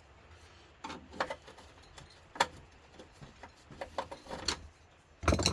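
Irregular metallic clicks and clinks of small hand tools and screwdriver bits being handled against a security screw on a grill casing, with a louder knock near the end.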